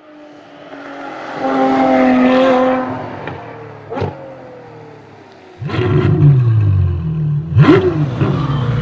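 Car engine revving, with a sharp hit about four seconds in. Partway through the engine comes in much louder and its pitch falls away, then it gives a quick rev blip near the end.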